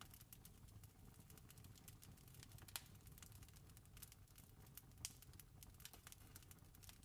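Wood fire crackling faintly: a steady run of small ticks and snaps, with two sharper pops about three and five seconds in, over a low steady rumble.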